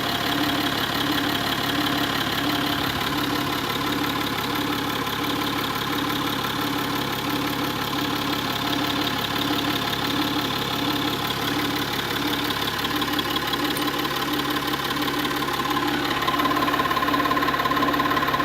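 Peugeot 607's 2.7 HDi V6 diesel engine idling steadily, with an even pulsing about one and a half times a second. A steady whine joins in near the end.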